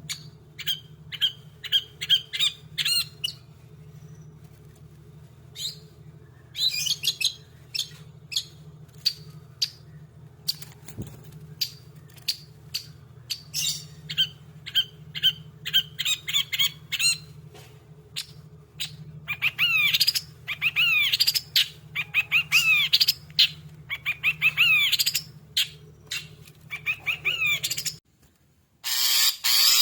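Long-tailed shrike (cendet) singing in an agitated, excited way: quick runs of short, sharp, high chirping notes broken by pauses, growing denser and faster in the second half, over a steady low hum. The song breaks off briefly near the end and picks up again.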